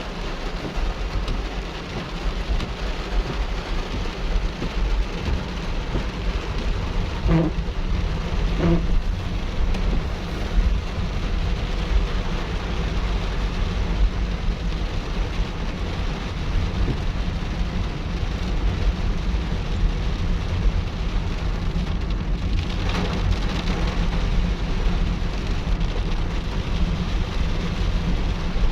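Heavy rain falling steadily, with a constant low rumble underneath. Two short pitched sounds come about seven and nine seconds in.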